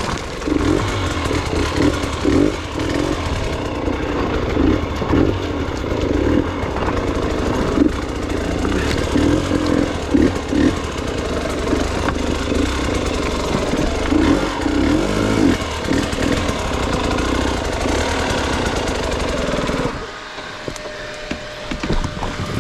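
Gas Gas EX 300 two-stroke dirt bike engine revving in uneven bursts as the bike is ridden hard through rough, rocky ground. About three seconds before the end, the engine sound drops off sharply and goes quieter.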